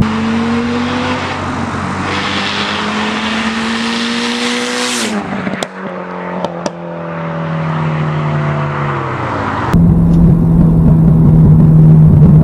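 Tuned Mitsubishi Lancer Evolution VIII's turbocharged four-cylinder passing by at speed: the engine note climbs as it approaches, drops sharply as the car goes past about five seconds in, with three sharp cracks, then falls away. About ten seconds in the sound cuts to a steady low drone.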